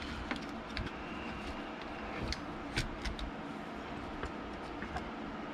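A few light clicks and taps from small parts and tools being handled during a handheld console repair, over a steady low background hum.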